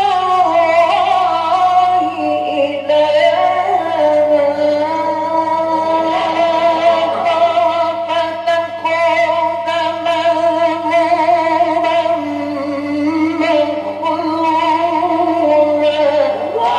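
A male Quran reciter chanting in the melodic mujawwad style, with long held notes that waver and turn through ornamented runs. A steady low mains hum from the old recording sits under the voice.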